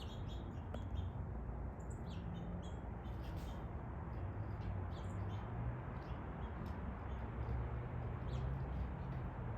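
Outdoor background: a steady low rumble with scattered faint, short bird chirps.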